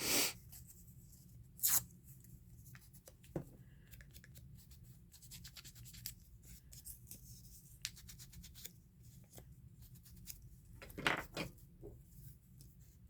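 Paper and card being handled and worked at a craft table: scattered light rustles and scrapes, with a few sharper clicks or snips, the loudest right at the start and in a short cluster about two seconds before the end.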